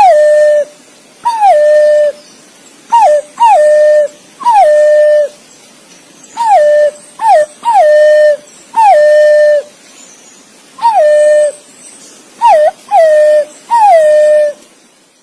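Green pigeon (punai) calling: a series of about a dozen clear whistled notes, each sliding down and then holding a steady pitch, some short and some drawn out.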